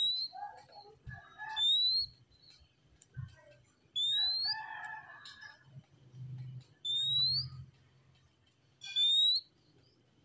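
Oriental magpie-robin (kacer) singing: five clear, rising whistled notes a second or two apart, with softer chattering notes between them.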